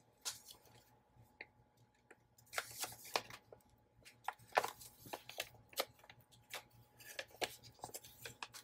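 Paper journal pages and small craft pieces being handled: faint, irregular rustles and light clicks, busiest around the middle.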